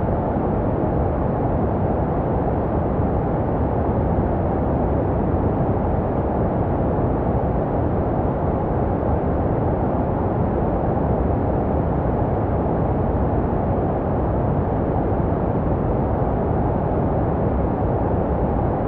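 Steady, deep and muffled white noise, an unbroken hiss with no changes or events. It is baby sleep noise made to resemble the sounds a baby hears in the womb.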